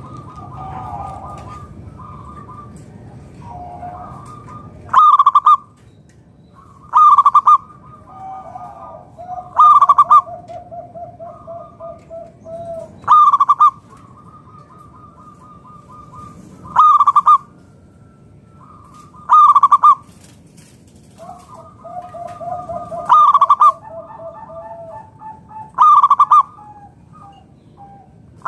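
Zebra dove (local perkutut) calling: eight loud, short cooing phrases spaced a few seconds apart, with softer, rapid rattling coo series running between them.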